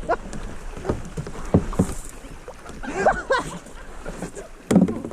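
Paddling and water splashing around a plastic sit-on-top kayak, with a few sharp knocks, the loudest near the end, as the kayak is brought in to land on the river bank.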